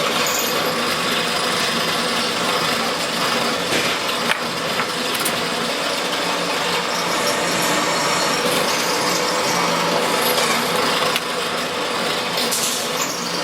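A tool at work in a workshop: a steady, even noise with a faint hum under it.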